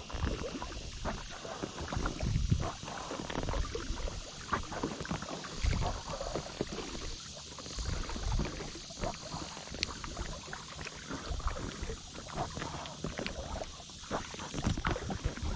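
Kayak paddling: paddle blades dipping and splashing in the water at an irregular pace, with wind rumbling on the microphone.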